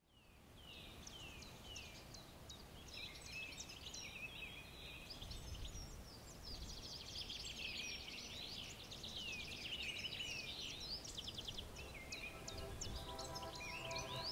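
Songbirds singing, with many short chirps, falling whistles and quick trills, over a low rumble. Soft music fades in near the end.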